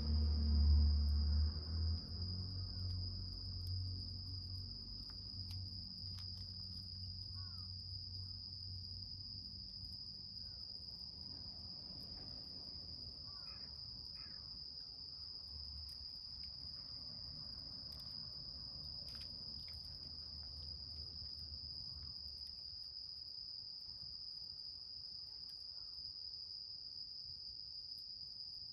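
Insects trilling: one steady, unbroken high-pitched buzz, with a few faint crackles from a small wood fire.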